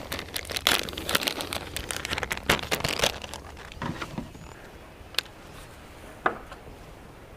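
Close crinkling, crackling rustle for about three seconds, then a few single sharp clicks.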